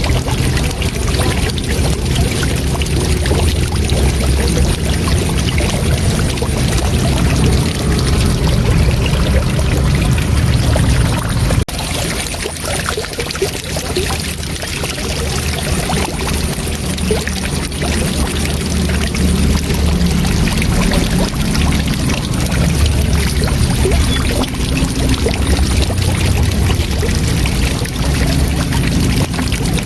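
Waterfall rushing: a steady, full-bodied wash of falling water, heaviest in the low end. About twelve seconds in it dips slightly and its low end thins for a few seconds before building back up.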